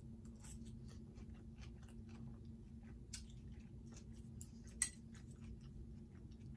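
Faint chewing of a mouthful of leafy green salad, with small wet clicks and crunches. There is one sharper click a little before five seconds in.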